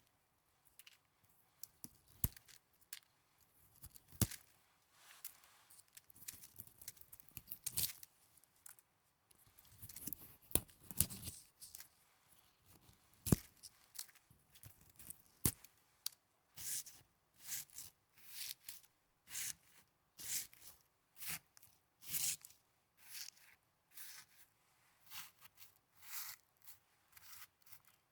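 Snow handled close to the microphone as an ASMR trigger: a run of short, crisp crunches. They come irregularly at first, then settle about halfway through into a steady series of a little over one a second.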